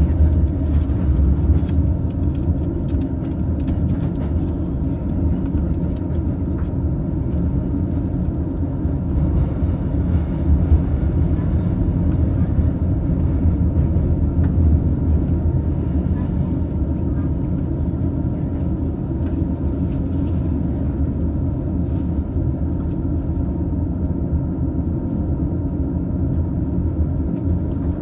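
JR East E233 series electric train heard from inside its double-deck Green car while running: a steady low rumble of wheels on rails with scattered faint clicks.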